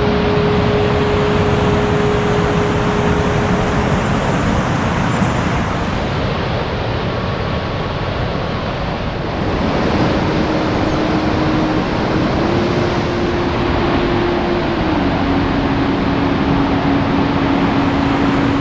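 Heavy rain falling steadily, an even hiss, with a few faint long held tones that step between pitches.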